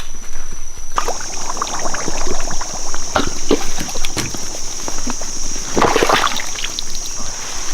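Footsteps squelching through wet, sloppy mud, irregular and uneven. A steady high-pitched insect drone starts about a second in and runs on behind the steps.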